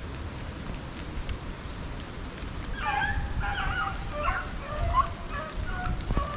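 Rabbit hounds baying on a rabbit's trail, a string of wavering bawls starting about three seconds in, over a steady rustling noise.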